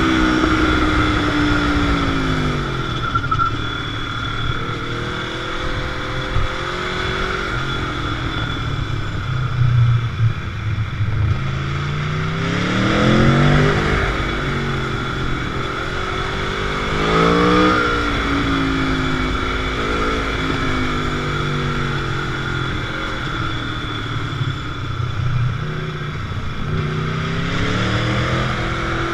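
Motorcycle engine on the move, its pitch rising and falling several times as the rider accelerates through the gears and eases off, over a steady rush of wind noise.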